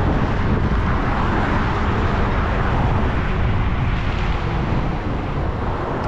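Steady loud rushing noise with a heavy low rumble: wind and road noise on the microphone.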